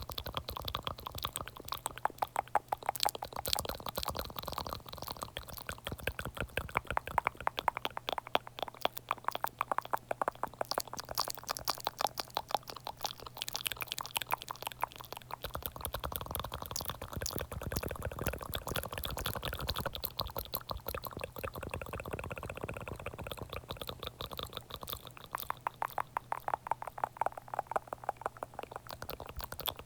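Close-miked ASMR mouth sounds: rapid, continuous wet clicks and smacks.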